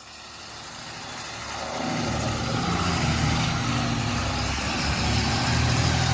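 A heavy vehicle's engine running, growing louder over the first two seconds and then holding a steady pitch.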